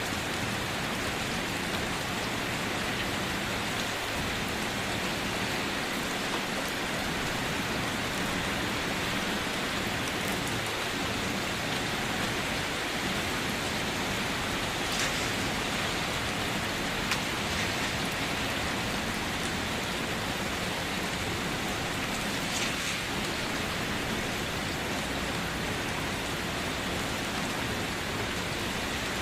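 Steady rain falling and pattering on a surface, an even hiss with a few sharper drop ticks now and then.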